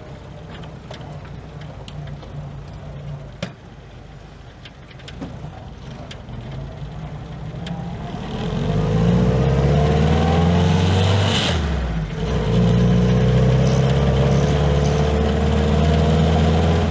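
WW2 Willys Jeep's four-cylinder engine pulling away. It runs at low revs, then about halfway through the revs climb under load. They drop at a gear change with a short clunk, climb again in the next gear, and ease off at the very end.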